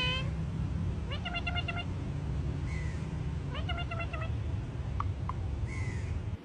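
A parrot imitating a cat, making a string of short meow-like calls, some broken into quick repeated notes, over a steady low hum. Two sharp clicks come about five seconds in.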